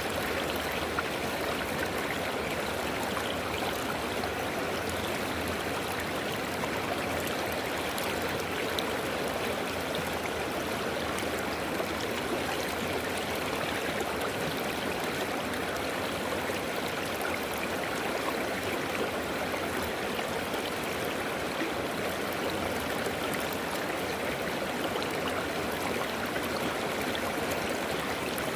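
A river flowing over rocks: a steady rushing and babbling of water that goes on evenly.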